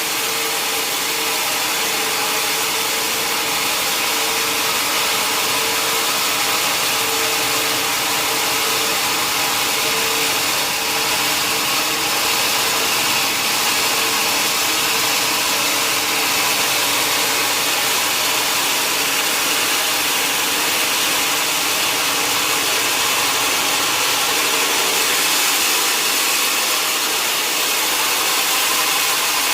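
Sawmill saw running steadily in a continuous, even noise with a steady hum underneath.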